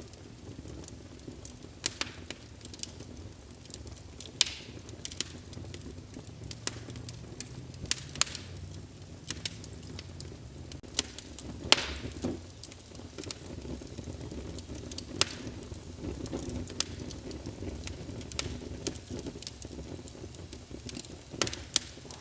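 Wood fire burning in a fireplace: a steady low rumble with irregular crackles and pops, a handful of them sharper, louder snaps.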